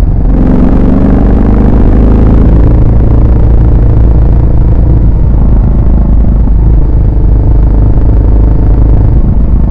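Yamaha SR400's air-cooled single-cylinder four-stroke engine and exhaust under way. The pitch climbs over the first few seconds as it accelerates, then it runs steadily.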